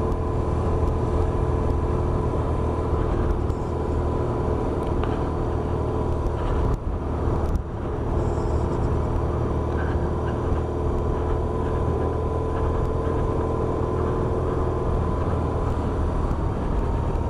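BMW R1100RS's boxer twin engine running steadily at cruising speed while riding, over a steady rush of wind and road noise, with a brief dip in the sound about seven seconds in.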